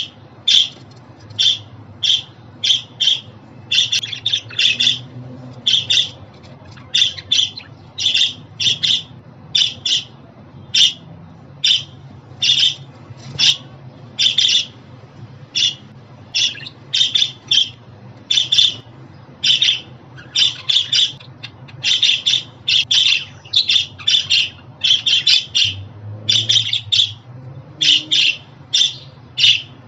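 Budgerigar calls: short, high chirps and squawks repeated throughout, often in quick runs of two or three, over a faint low hum.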